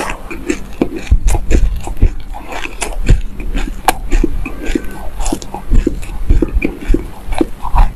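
Close-miked chewing of a mouthful of black sesame seeds: dense, irregular crunching and crackling.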